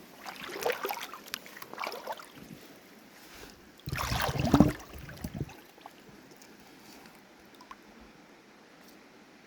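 Splashing and sloshing of someone wading through shallow river water, in several rough bursts. The loudest is a deep rumbling surge about four seconds in, followed by the river's faint steady rush.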